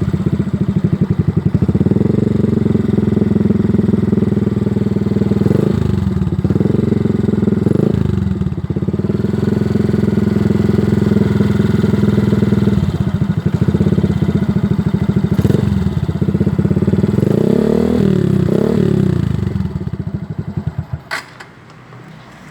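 Suzuki Axelo 125 motorcycle's single-cylinder four-stroke engine running through an aftermarket Thai FU silencer and custom header, giving a deep, bassy exhaust note. It runs steadily with a few short throttle blips, a longer run of revs rising and falling near the end, then the engine sound dies away, followed by a single click.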